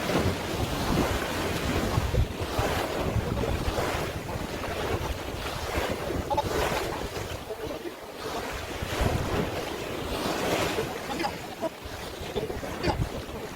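Sea waves washing in, swelling and falling every couple of seconds, with wind buffeting the microphone.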